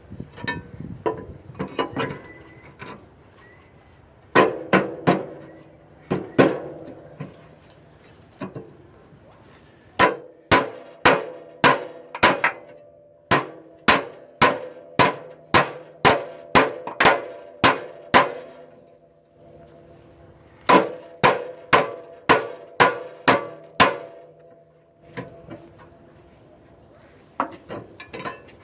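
Hammer striking steel repeatedly, knocking cut-off bolts out on a plow truck; each blow rings. The blows come in runs of about two a second, with short pauses between runs.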